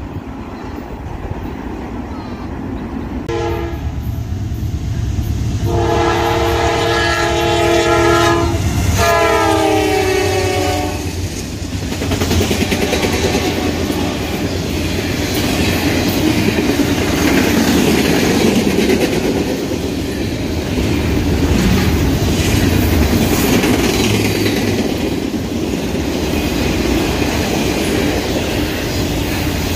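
Freight locomotive's multi-chime air horn sounds three blasts, the last one dropping in pitch as it goes by. Then comes the steady rumble and clatter of double-stack container cars rolling past.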